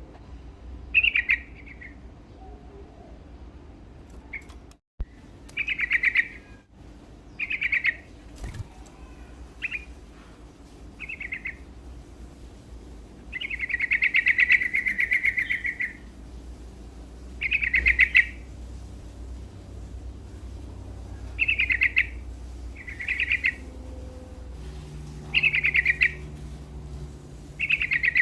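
Yellow-vented bulbul (trucukan) singing vigorously in short chattering phrases repeated every second or two, with one longer phrase of about two and a half seconds near the middle.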